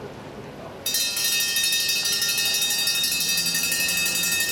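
Trackside lap bell at a velodrome, rung rapidly and continuously with a sudden start about a second in, signalling the bell lap or an elimination sprint lap to the riders.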